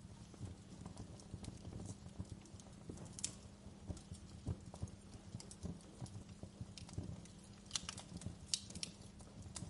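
Wood fire crackling in a fireplace: a steady low rumble of burning with frequent small pops, and a cluster of sharper snaps about eight seconds in.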